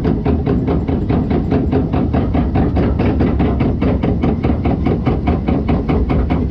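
Log flume boat riding up the lift conveyor: a rapid, even clacking at about six a second over a steady low rumble.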